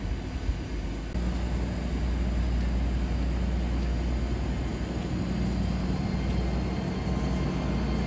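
GWR Intercity Express Train moving along the station platform: a steady low rumble that gets louder about a second in.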